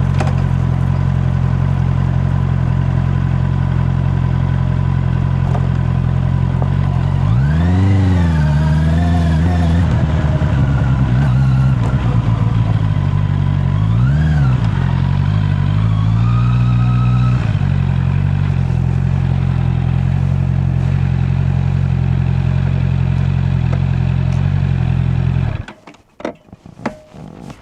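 Honda CB650R inline-four engine idling steadily, its throttle blipped twice so the revs rise and fall briefly, then the engine is switched off and cuts out suddenly near the end, leaving faint wind and handling noise.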